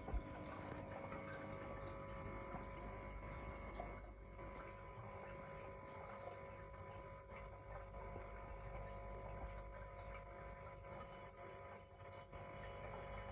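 Aquarium filter pump humming steadily over the sound of moving water, faint throughout.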